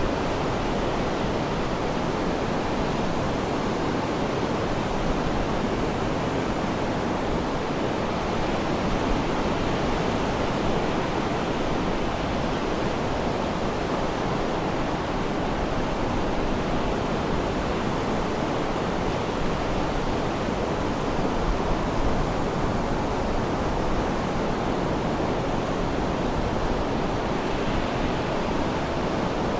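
Sea surf washing steadily, an even rushing noise with no distinct breaks.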